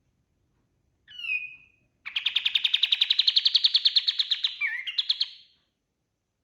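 Kapas tembak, a bulbul kept as a songbird, singing: a short whistled note about a second in, then a fast, loud trill of about a dozen notes a second that rises slightly in pitch and ends in a few varied notes.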